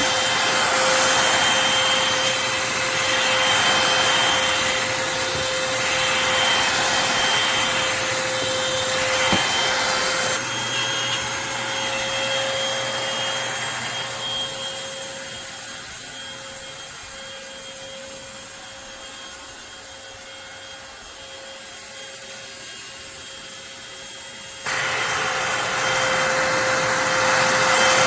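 Eureka Blaze stick vacuum cleaner running, a steady motor whine over a rushing noise of suction and brush on the floor. It fades away gradually through the middle and comes back loud abruptly near the end.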